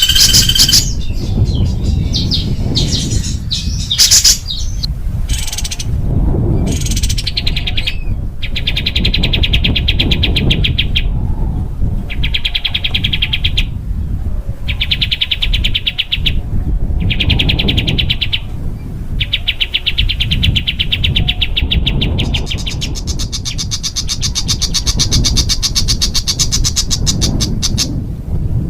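Small songbird singing very rapid, harsh trills ('tembakan') in bursts of a second or two with short breaks, with a higher-pitched trill near the end. A steady low rumble lies underneath.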